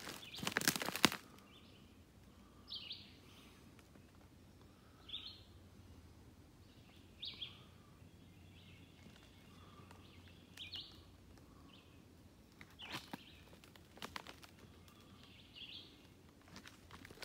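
A songbird repeating a short high call about every two to three seconds in the woods. Footsteps crunch through dry leaf litter in the first second and again briefly about thirteen seconds in.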